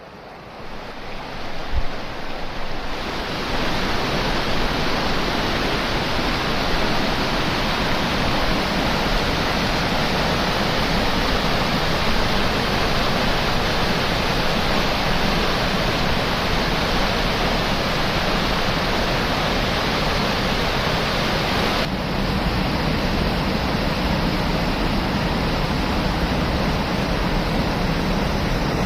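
River water rushing steadily over its bed, a dense, even wash of sound that fades in over the first few seconds and shifts slightly in tone about three-quarters of the way through.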